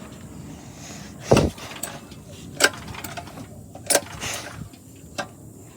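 Four sharp knocks, about a second and a quarter apart, the first a heavier thud, over a steady low rumble.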